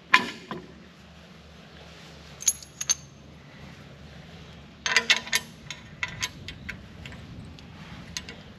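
Bolts and a steel loader bracket clinking and tapping as a bolt is worked into its hole: scattered sharp metal clicks, a few around three seconds in and a cluster about five seconds in, over a faint steady low hum.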